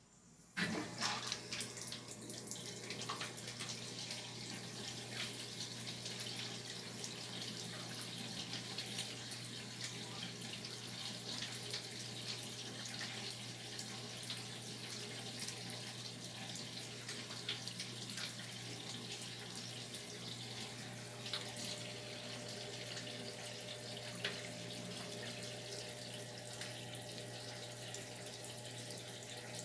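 Washing machine filling with water: the inlet valve opens about half a second in and water rushes steadily into the drum, with a steady low hum underneath.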